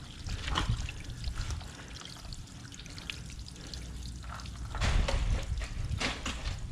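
Water pouring and trickling, growing louder about five seconds in.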